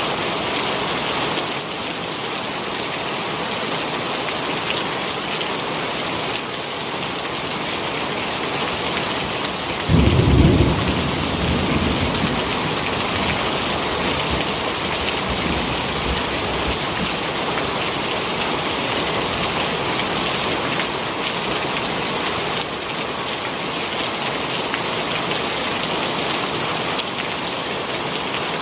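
Heavy rain falling steadily. About ten seconds in, a sudden low rumble of thunder, the loudest sound here, dies away over a couple of seconds.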